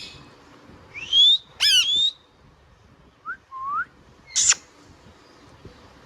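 Indian ringneck parakeet calling: a quick run of rising whistles about a second in, two short, softer, lower upward whistles past the middle, and one brief harsh screech at about four and a half seconds.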